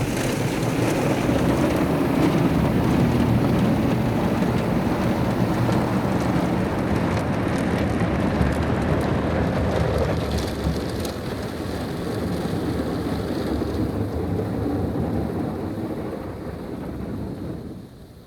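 Soft-touch automatic car wash heard from inside the car: spinning cloth brushes and water spray scrubbing and pattering over the body. It eases off in the last few seconds, then drops away suddenly near the end.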